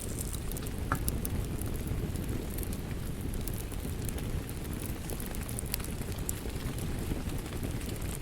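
Wood fire crackling in a fireplace: a steady low noise of the flames with scattered small pops and snaps, one a little sharper about a second in.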